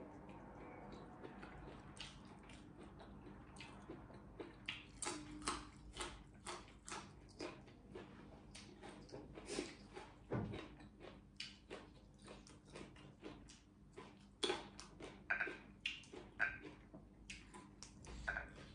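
Close-up eating sounds: a person chewing and smacking their lips, a run of soft wet clicks a few a second. A brief low hum of the voice comes about ten seconds in.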